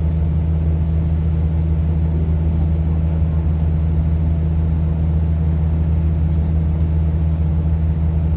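An engine running steadily with a constant low hum that does not rise or fall.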